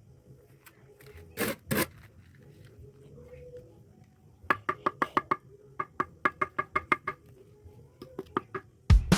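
Bricks being tapped down into fresh mortar as they are laid: two sharp knocks, then a quick run of ringing taps at about five a second for a few seconds. Music comes in at the very end.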